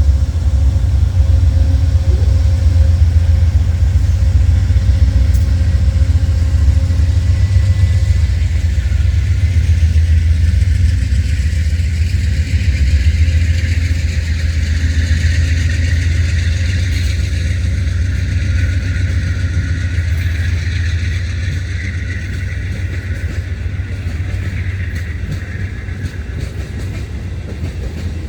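Passing train: a loud, steady, heavy low rumble with a hiss of wheel and rail noise that builds in the middle and slowly eases off toward the end.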